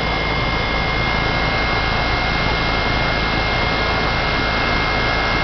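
Goodman 3.5-ton, 10 SEER heat pump outdoor unit running steadily, compressor and condenser fan together, with a thin steady high whine on top. There is still a little ice on the coil; the owner suspects it is low on refrigerant or has a bad TXV, making it freeze up in heat mode.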